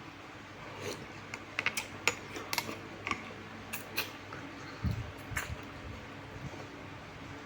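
Scattered clinks of a spoon against a bowl and dish, with mouth sounds of eating, and a soft low thump about five seconds in.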